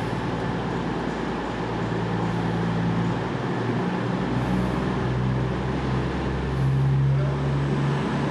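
Train running past at a station platform: a steady mechanical drone over a rumble that rises in pitch and grows louder about seven seconds in.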